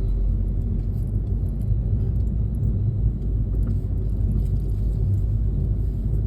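Steady low rumble of a car on the road, with no distinct knocks or tones standing out.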